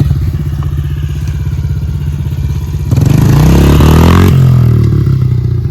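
Honda CRF pit bike's single-cylinder four-stroke engine running at low revs, then revved up sharply about three seconds in, climbing for a little over a second before dropping back.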